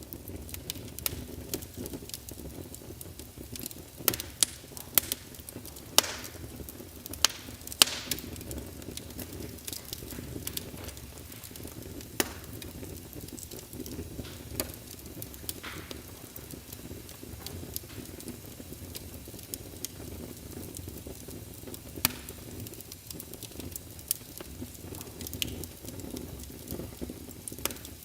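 Logs burning in a fireplace, crackling with irregular sharp pops over a low, steady rumble of the flames. A run of louder pops comes about four to eight seconds in.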